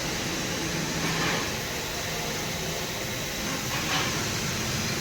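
Water being poured from a jar into a car's radiator to fill the cooling system, a steady rushing, splashing pour.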